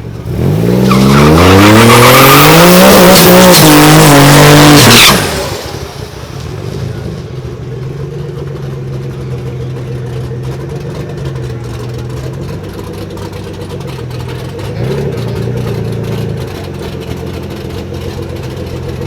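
Twin-turbo Nissan 300ZX V6 at full throttle, very loud, revs climbing steeply through a couple of gear changes for about five seconds. Then it lifts off and settles to a steady low engine note, with a short blip of revs near the end.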